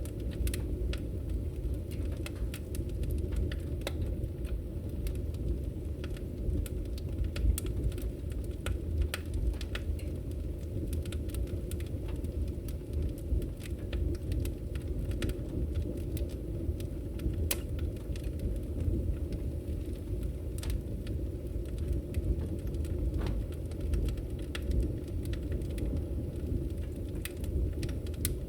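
Firewood burning in a fire, a steady low roar of flames with frequent sharp crackles and pops at irregular intervals.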